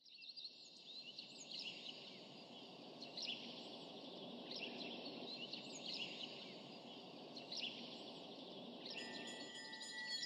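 Small birds chirping and singing in short repeated phrases over a steady low background rumble. Chiming music with glockenspiel-like tones comes in near the end.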